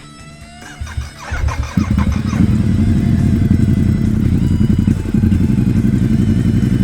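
Cruiser motorcycle's V-twin engine running loud and steady, coming in about two seconds in as guitar music fades out.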